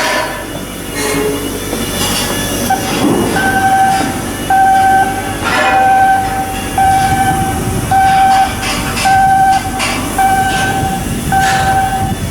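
Electronic warning alarm beeping about once a second, one steady tone, starting a few seconds in, over work noise with scattered metal knocks.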